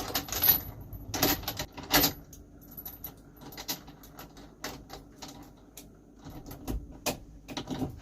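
Gear being handled and packed: a scatter of small clicks, knocks and rattles, busiest in the first two seconds, with jangling like keys or metal items.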